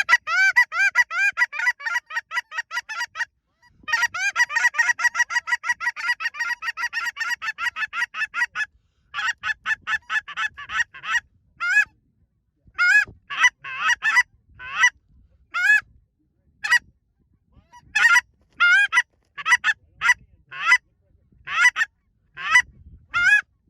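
Hand-blown goose call imitating Canada geese: fast runs of clucks, about six a second, then single honks spaced about a second apart, each note breaking sharply upward in pitch.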